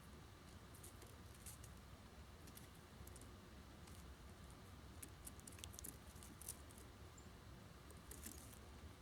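Faint, irregular clicking and scratching of small birds pecking and handling seed at a feeder, over a low steady hum.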